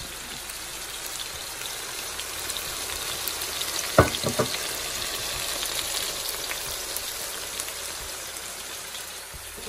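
Thin chicken fillets frying in hot avocado oil in a large frying pan on maximum heat, a steady sizzle with small crackles as the meat browns. About four seconds in there is a sharp knock, followed quickly by a smaller one.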